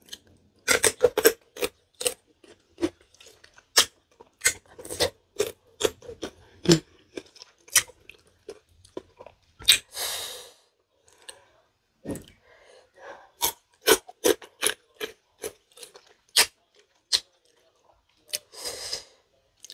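Close-up eating of fresh green tamarind pods dipped in sauce: crisp crunching bites and chewing, heard as many sharp clicks. Two longer breathy slurps come about halfway through and near the end.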